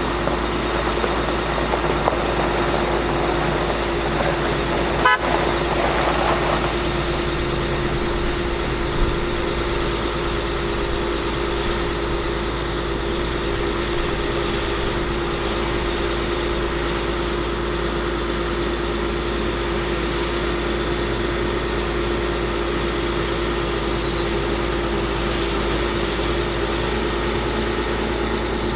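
Caterpillar C7 diesel engine of a Ford F750 bucket truck running steadily, with a steady whine held over it. A single sharp click about five seconds in.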